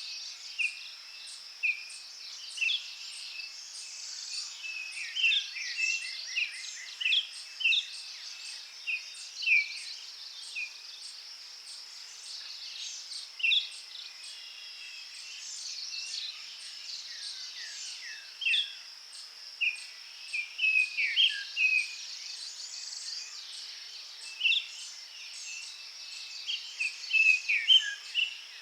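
Forest ambience: many short bird chirps and song phrases scattered throughout over a steady high insect drone, with a fast regular ticking high above it.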